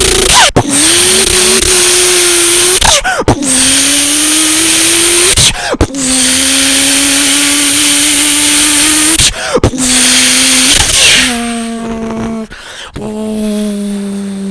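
A person vocally imitating a turbocharged Toyota Supra mk4 accelerating hard through the gears: a loud, hissy engine-like tone, cut by brief breaks for gear shifts about every three seconds, each gear starting a little lower and creeping up. Near the end it settles into a cleaner, lower steady hum that sags slightly.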